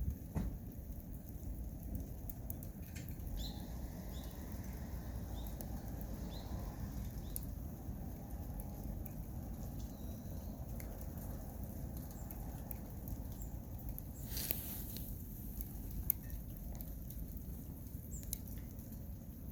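Wood fire burning in a Solo Stove, with scattered crackles and pops over a steady low rumble, and a short hissing flare about two-thirds of the way through.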